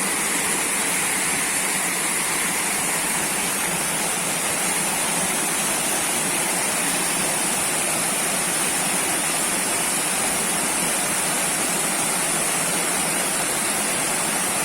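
Waterfall: water pouring and rushing, a steady, even noise that does not change.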